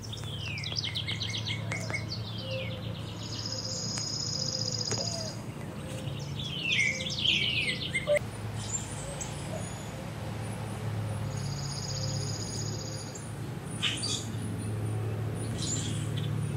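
Songbirds singing: quick runs of falling chirps and, twice, a long high buzzy trill lasting about two seconds, over a steady low hum.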